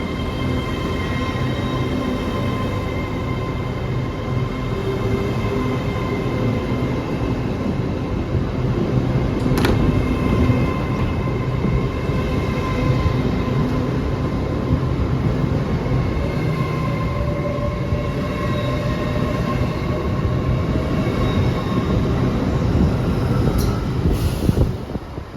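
A train running close by in a station, with a heavy rumble, a steady whine from its traction equipment and a sharp click about ten seconds in. The sound drops away suddenly near the end.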